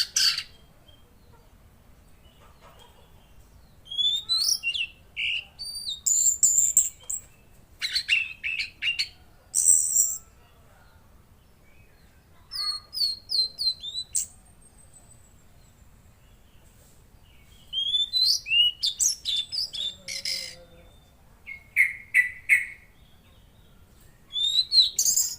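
Mangrove blue flycatcher (tledekan laut) singing: repeated phrases of quick, high chirps and short whistled notes, some rising, each lasting one to two seconds with short pauses between them.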